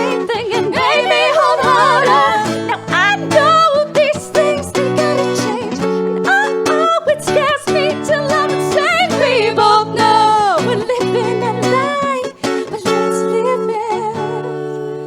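Live acoustic music: wordless sung runs with wavering pitch over a plucked acoustic guitar accompaniment, getting quieter near the end.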